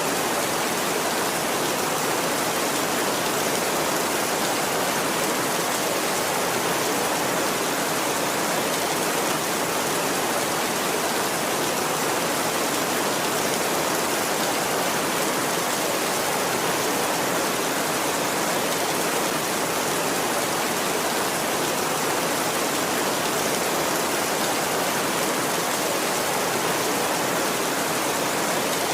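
Steady heavy rain, an even hiss that holds at one level throughout, with no thunder.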